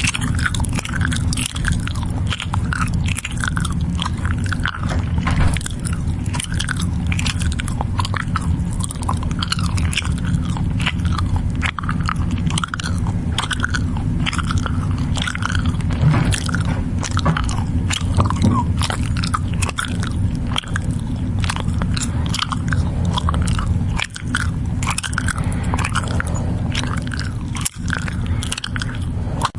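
Goats chewing and crunching feed: a dense, irregular run of crunching clicks over a steady low rumble.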